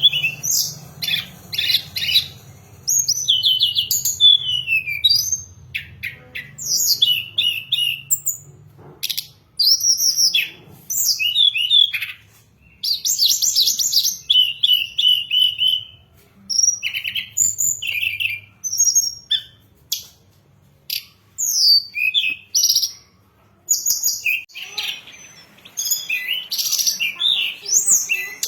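Tledekan gunung singing a long run of varied high, quick phrases: rapid chirps, trills and slurred whistles broken by short pauses, with a faint low hum under the first half.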